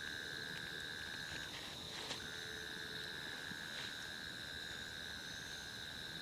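Steady chorus of calling insects and frogs, heard as two unbroken high-pitched tones. The lower tone drops out briefly about a second and a half in, and a faint tick follows just after.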